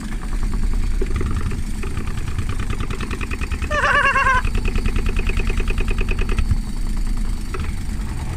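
Indesit washing machine's brushed motor spinning the drum up towards full spin speed, with a fast, even knocking as the drum hits the back of the cabinet on each turn; a brief wavering whine comes in about four seconds in. The motor's brushes are worn and need replacing.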